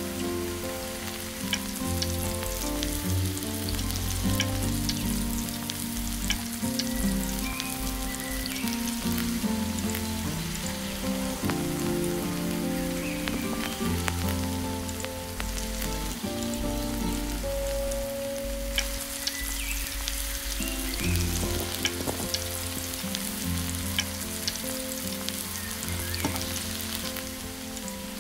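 Stuffed kulcha sizzling and crackling on a hot miniature tawa. Background music with slowly changing held notes plays underneath.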